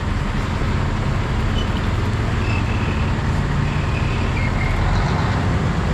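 Heavy farm diesel engines running steadily with a constant low hum, as tractors work to pull a forage harvester stuck in wet mud.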